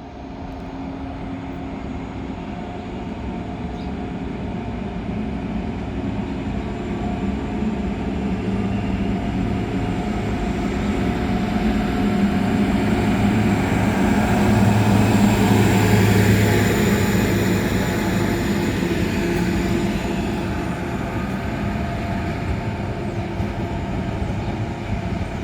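Colas Rail DR75 track tamper passing on its diesel engine: a steady engine note with running noise that builds to its loudest about two-thirds of the way through, then fades as it moves away.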